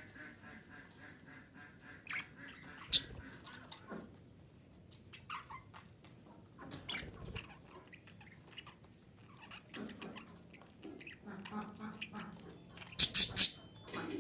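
Female budgerigar chattering and warbling in soft broken calls, with one sharp chirp about three seconds in and a quick run of three or four loud chirps near the end.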